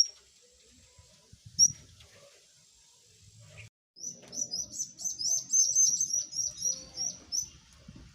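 Birds chirping: two single high chirps, then about four seconds in a fast run of many high chirps lasting about three and a half seconds.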